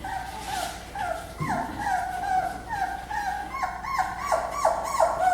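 Beagle puppies whimpering in a string of short, high, falling cries. The cries come faster and louder near the end.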